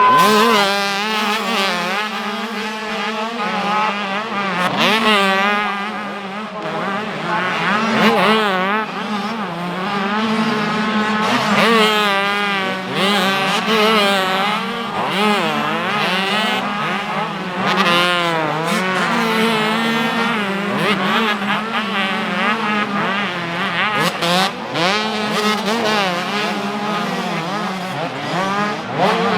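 A pack of 85cc two-stroke motocross bikes racing, several engines revving up and down at once, their pitch rising and falling continually over a steady low drone.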